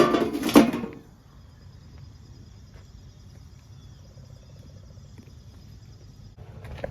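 A short loud burst of noise in the first second, then crickets chirping steadily in a rapid, even, high-pitched pulse.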